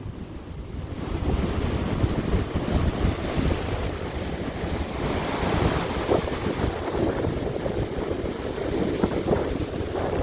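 Ocean surf washing ashore, with wind buffeting the microphone in low rumbling gusts. The surf swells louder about halfway through and again near the end.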